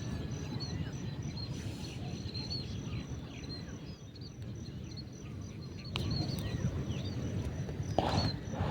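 Small birds chirping over a faint, steady pulsing insect trill and a low rumble of background noise, with a couple of brief knocks in the last few seconds.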